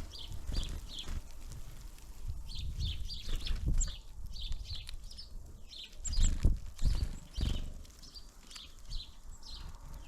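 Small birds at a winter feeder giving short, high calls, several a second in runs, with low knocks and thumps; the loudest thumps come about six to seven seconds in.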